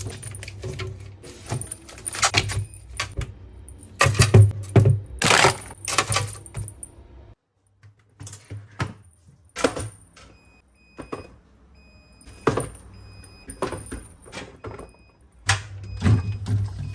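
Groceries and food containers being handled while restocking a refrigerator: irregular clinks, rattles and rustling, over a low steady hum. The sound drops out briefly about seven seconds in.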